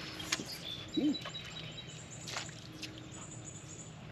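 Birds calling from the wooded riverbank over a steady outdoor background, with a short low curved note about a second in and a few light clicks.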